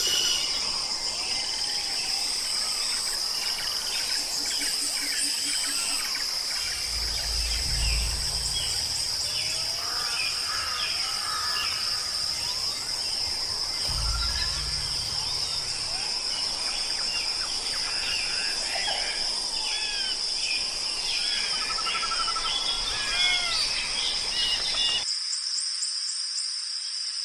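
Natural outdoor ambience: a steady, high-pitched insect chorus with many birds chirping and calling over it. Two brief low rumbles come about a third and halfway through, and near the end the bird calls and lower sounds cut off abruptly, leaving only the insect drone.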